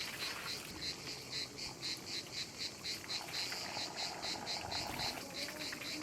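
A cricket chirping steadily in the background, a high-pitched chirp repeated evenly about four times a second.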